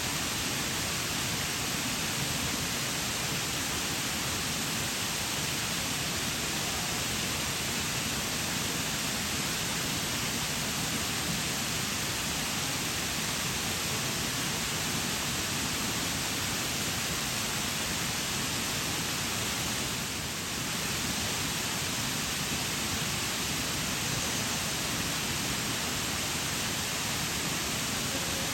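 Waterfall: a steady, even rush of falling water spread from low to high, dipping slightly for a moment about twenty seconds in.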